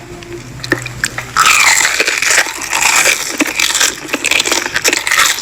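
Loud, close-miked chewing and crunching of food in a mukbang clip, starting about a second and a half in and going on continuously.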